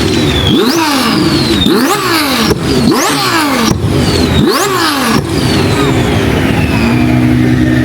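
Car engine revved in about five quick blips, each rising and falling sharply in pitch. It then settles to a steady idle while a high whine slowly falls away.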